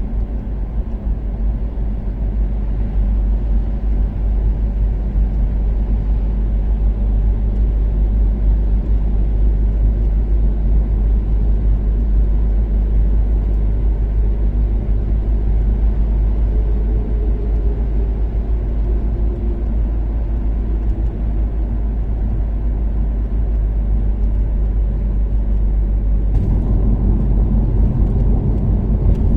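Toyota Caldina's 3S-GTE turbocharged four-cylinder engine and road rumble from the car cruising steadily on an expressway, with a slight shift in engine pitch midway. About three seconds before the end, the engine note fills out and gets louder.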